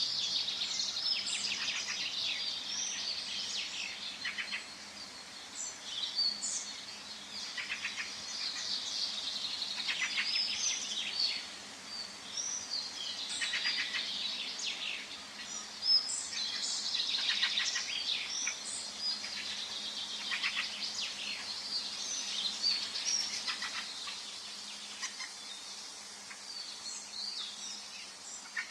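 Forest ambience: several songbirds singing and chirping over one another, with quick high twitters and trills coming and going throughout.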